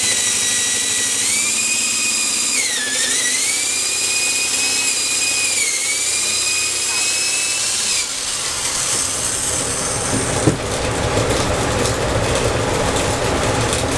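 Electric drill boring into a softwood 2x4 block with a large cutting bit. The motor whine sags in pitch about three seconds in as the bit bites and loads the motor, then recovers. The whine drops away about eight seconds in, leaving a rough grinding of the bit in the wood.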